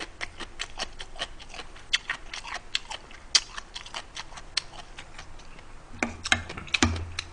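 Close-miked chewing during a meal: irregular wet mouth clicks and smacks, several a second, with a few louder clicks and low bumps near the end.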